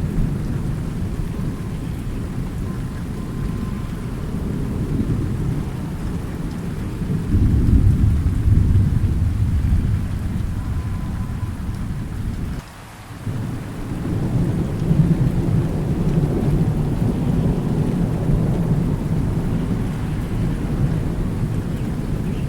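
Steady rain with low, rolling thunder. The rumble swells louder about a third of the way in, and a little past the middle the sound briefly drops away for about half a second before the rain and rumble return.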